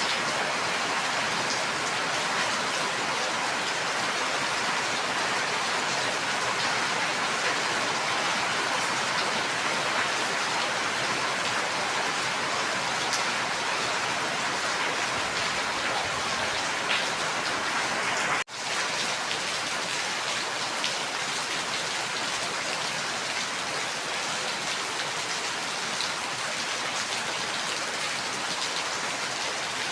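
Steady heavy rain falling, a dense even hiss with individual drops ticking through it. The sound briefly drops out about two-thirds of the way through.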